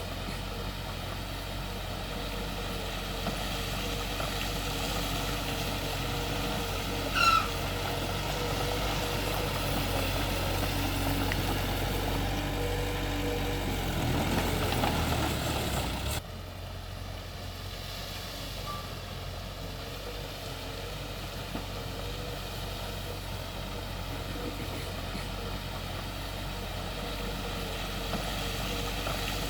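Heavy diesel earthmoving machinery running steadily: a bulldozer and dump trucks at work. There is a brief high-pitched tone about seven seconds in, and the engine sound drops and changes abruptly about sixteen seconds in.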